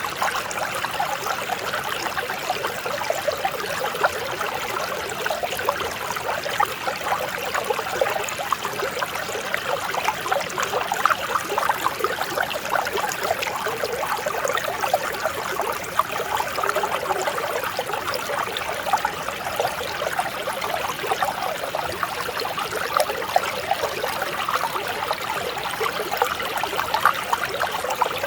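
Mountain stream flowing and trickling over rocks, a steady gentle babble with many small splashes.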